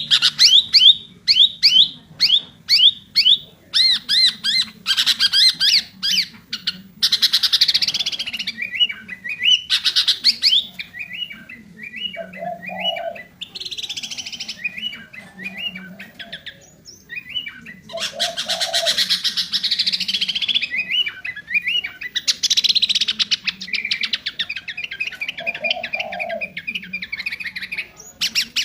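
Sooty-headed bulbul singing without pause, its song stocked with 'isian' fill-in phrases. It opens with a quick run of about three clear whistled notes a second, then moves to harsh chattering bursts broken by short warbled phrases.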